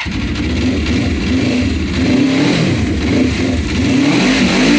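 Suzuki GS500's air-cooled parallel-twin engine running and being revved in repeated throttle blips, its pitch rising and falling. The engine is still cold.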